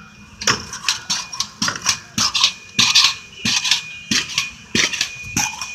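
Pogo stick bouncing repeatedly: a quick run of clattering landings, about three a second.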